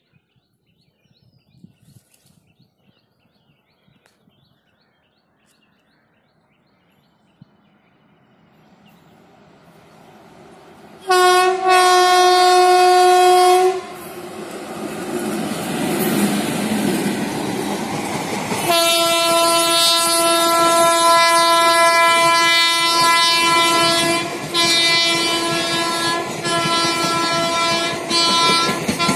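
Indian Railways WAP-4 electric locomotive approaching and passing with its train, the rumble of its wheels building from a quiet start. Its horn gives a loud three-second blast about eleven seconds in, then a long horn from about nineteen seconds that breaks off briefly a few times near the end, over the clatter of the passing coaches.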